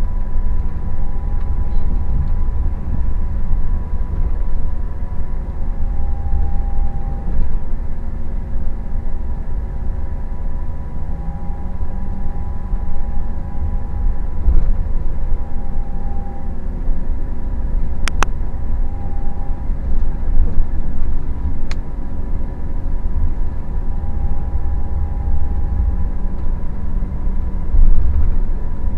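Scania K400IB coach's engine running steadily under way: a deep, continuous rumble with a faint steady whine above it. Two sharp clicks come about 18 and 22 seconds in.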